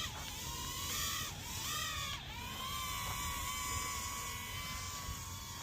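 Light drone's motors and propellers whining, the pitch dipping and rising for about the first two seconds and then holding steady. A low wind rumble on the microphone runs underneath.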